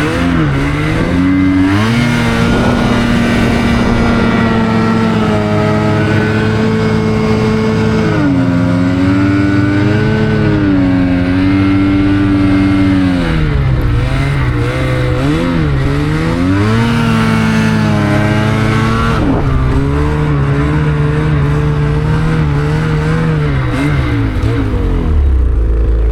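Snowmobile engine running hard under changing throttle, its pitch repeatedly dropping and climbing again as the rider eases off and opens it up.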